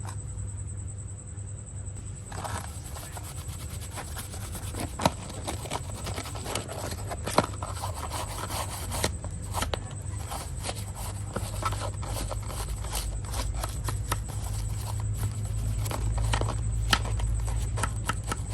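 Scrubbing and scraping on a small diecast model bus, with many light clicks and taps, over a steady low hum.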